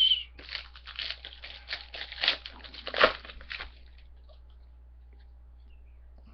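Trading-card pack wrapper being torn open and crinkled, a run of crackling and tearing that stops after about three and a half seconds.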